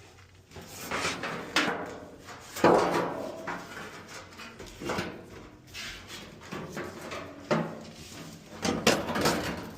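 A series of knocks, clunks and scrapes from dryer panels and parts being handled and fitted back during reassembly, with the loudest knocks about a third of the way in and near the end.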